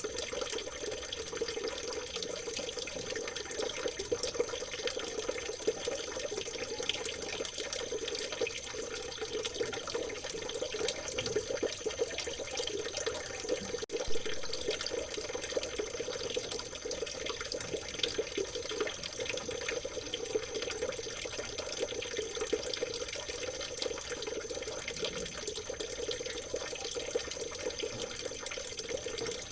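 Water trickling and babbling steadily in a small stream, with a faint steady high tone above it and a brief click about halfway through.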